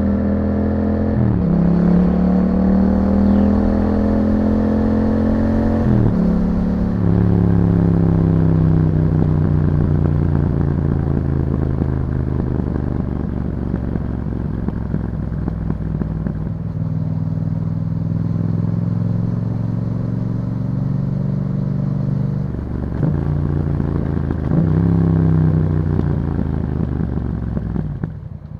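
A 2021 Yamaha MT-07's 689 cc parallel-twin engine through an Akrapovic exhaust, heard from the moving bike. The note climbs and drops sharply twice in the first six seconds as the rider changes up through the gears, then holds a steady cruise. It picks up again with a couple of shifts after about twenty seconds and falls away as the throttle closes near the end.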